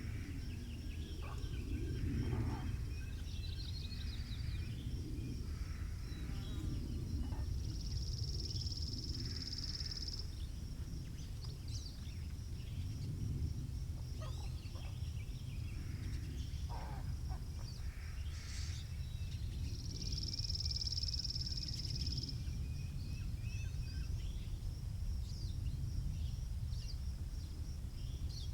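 Outdoor country ambience: wind rumbling low on the microphone, with songbirds chirping and calling throughout. A steady high-pitched trill runs underneath and swells louder twice, each time for about two seconds.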